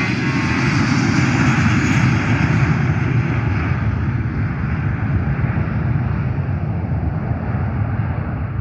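Jet airliner's engines, a loud rumble with a rushing hiss that peaks about two seconds in and then slowly fades as the aircraft moves away.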